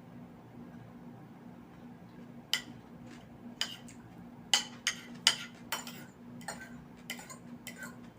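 Cutlery clinking and tapping against a dish: about ten sharp clicks in the second half, the loudest near the middle, over a low steady hum.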